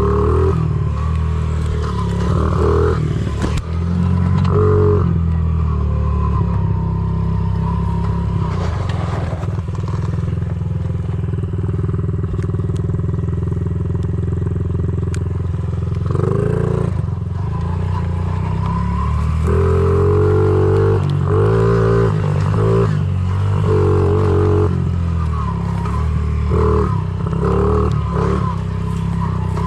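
Honda CRF50 pit bike's small single-cylinder four-stroke engine running under a rider on a trail. The revs rise and fall repeatedly with the throttle, holding steadier for a stretch in the middle.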